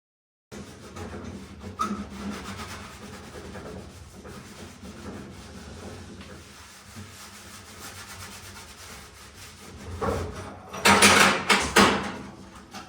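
Wood rubbing and scraping, followed about ten seconds in by a run of loud clattering knocks.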